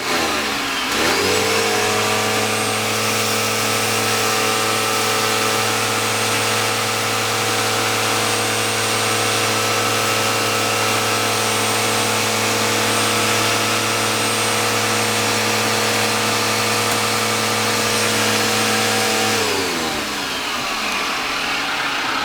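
Eureka vacuum cleaner's motor switched on, whining up to speed over about a second, running steadily for most of the time, then winding down with a falling pitch after it is switched off near the end.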